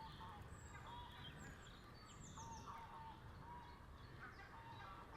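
Faint waterfowl calling in short, repeated notes, with quick high chirps from small birds over a low outdoor hum.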